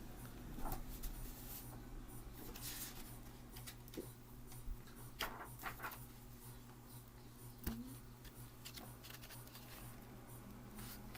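Faint rustling and a few light taps of handling, over a steady low hum, with a sharper tap near the end.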